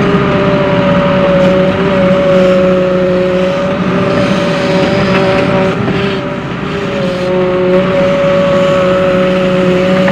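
Volvo EW130 wheeled excavator's diesel engine running steadily under load, with a steady whine over the engine rumble that eases briefly about six seconds in.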